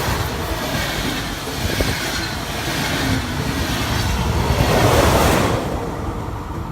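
A train passing by, its rushing rail noise building to a peak about five seconds in and then fading away.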